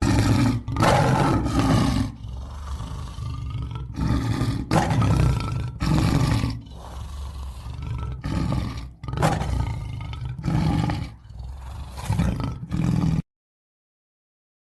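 Big cat roaring, a series of loud, rough roars with breathy quieter calls between them, cut off suddenly near the end.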